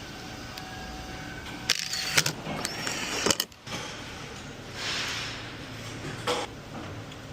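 Workshop clatter from hands-on work on a car: a few metallic knocks and clinks, a short hiss about five seconds in and a sharp click near the end.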